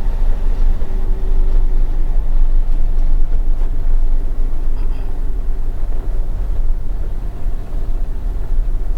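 Steady low engine and road rumble of a 20-foot box truck as it drives, heard from inside the cab.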